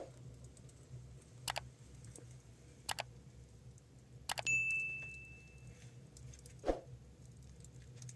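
A few sharp knocks or taps about a second and a half apart. The one about four seconds in is followed by a single high ring that fades over about a second, and a duller thump comes near the end, over a low steady hum.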